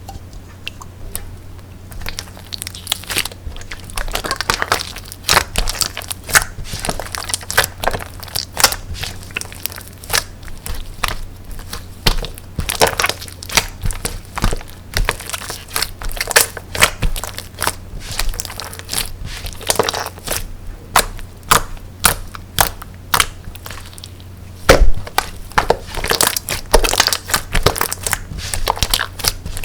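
Slime being pressed, squeezed and folded by hand, giving a dense run of irregular crackles and pops.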